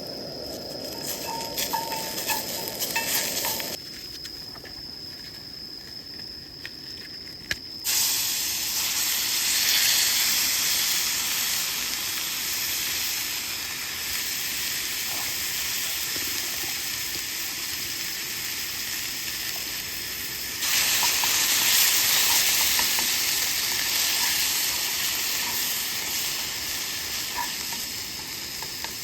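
Food sizzling and frying in a hot pan. The sizzle starts suddenly about eight seconds in, steps louder about twenty-one seconds in, then eases off. Before it come a few light clicks of handling.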